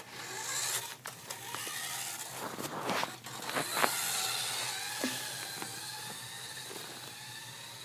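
A small electric motor in a remote-control toy car whirring, with scattered clicks and knocks.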